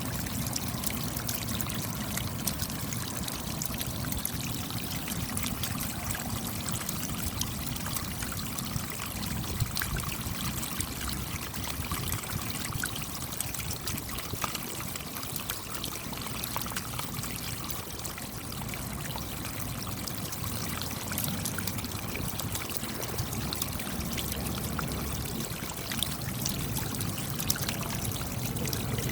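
Steady rain, many separate drops striking close by over an even rush of falling water.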